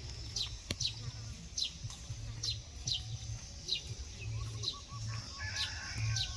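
A bird calling over and over, each call a short high chirp sweeping downward, about ten in all, with a lower run of quick notes about four seconds in. A low rumble runs underneath.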